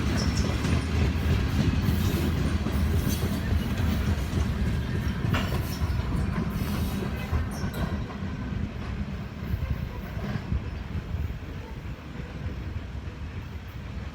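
Freight cars of a Norfolk Southern grain train rolling past, a steady rumble with wheels clicking over rail joints. The sound fades in the second half as the train draws away.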